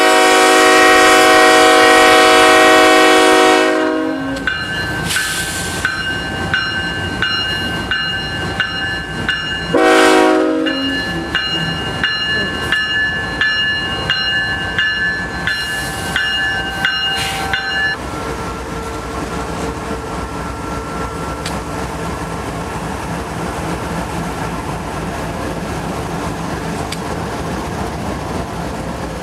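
CSX freight train with GE diesel locomotives passing close by: a long multi-note horn blast for the first four seconds and a short blast about ten seconds in, over the locomotives' engines. From about eighteen seconds in, the steady rolling of the autorack cars' wheels over the rails.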